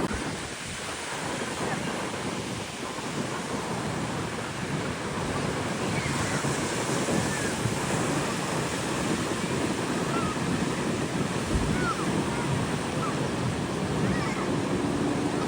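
Steady wash of ocean surf with wind on the microphone, and a few faint distant voices.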